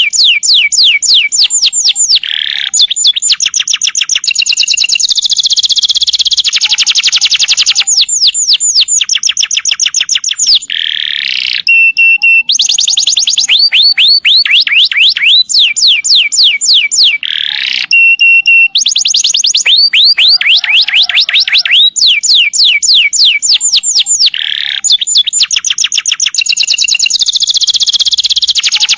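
Domestic canary singing a long rolling song: fast trills of rapidly repeated down-sweeping notes, one trill running into the next with hardly a pause.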